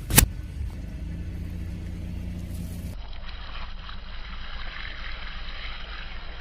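Car engine running steadily at low revs, with one sharp click just after the start. About three seconds in, the sound changes abruptly to a quieter, hissier background.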